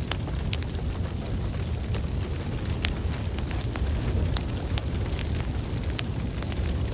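Wood fire burning in a fireplace: a steady low rumble of the flames with irregular sharp crackles and pops, one louder pop about three seconds in.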